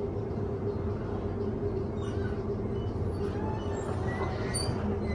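Electric passenger train heard from inside the carriage, running steadily with a low rumble and an even hum. Faint wheel squeals begin near the end.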